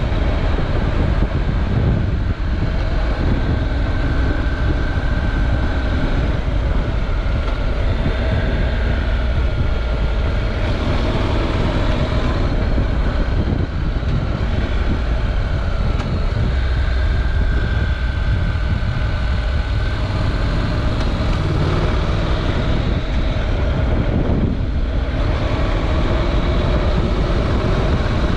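Honda NC700X motorcycle's 670 cc parallel-twin engine running at riding speed, its note wavering up and down with the throttle and dipping briefly a few times, over a heavy rumble of wind on the camera microphone.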